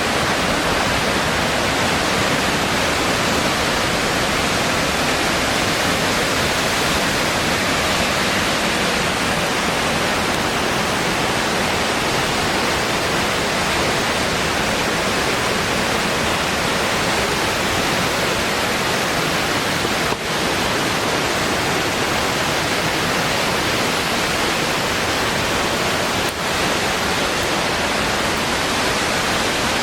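Gendayu Falls, a waterfall, pouring and splashing as a loud, steady rush of water. The sound dips for a moment twice, about 20 and 26 seconds in.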